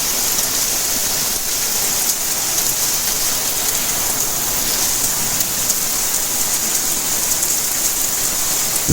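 Steady rainfall: an even, constant hiss of rain with faint scattered drop ticks.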